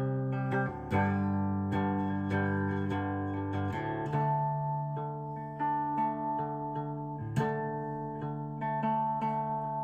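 Guitar music: strummed chords left ringing, changing about once a second.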